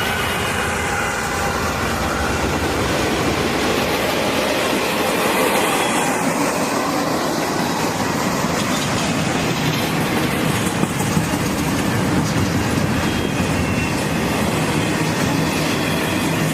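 A Norfolk Southern freight train rolling past, steel wheels clattering steadily over the rails with some wheel squeal.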